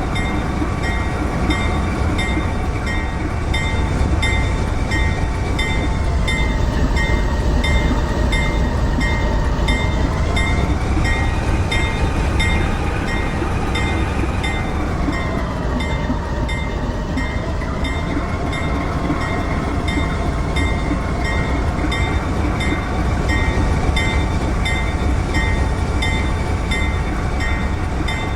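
Train running by with a steady, heavy rumble. A whining tone rises about ten seconds in and drops back about six seconds later, and a faint high tone pulses about twice a second throughout.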